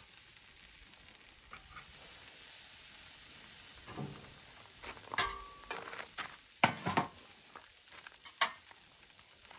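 Pork loin skewers sizzling on a hot charcoal grill, with a handful of sharp knocks in the second half.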